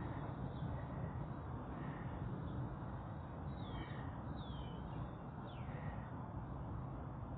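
Steady low outdoor background rumble, with a bird giving three short falling calls about halfway through.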